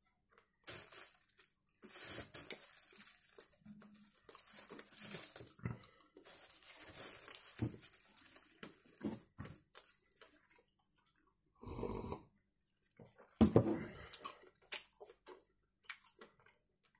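Close-up chewing and wet mouth sounds of a person eating a soft donut with banana cream filling, in irregular bursts, with two louder mouth noises near the end.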